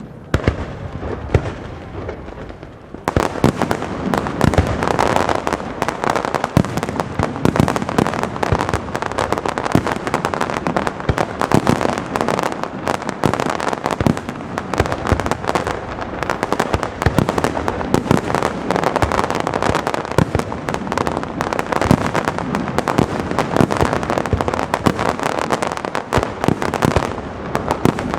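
Castillo aerial fireworks display: a rumbling lull, then about three seconds in a dense, rapid barrage of bangs and crackling reports that keeps on without a break.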